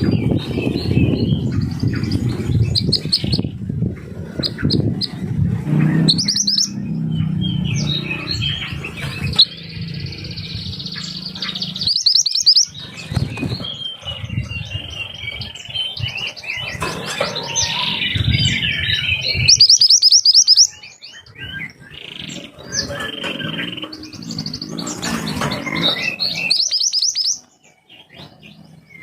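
Mantenan gunung songbird singing: sharp, rapid high trills and chirps in quick runs, with a low rumbling noise underneath for about the first twelve seconds.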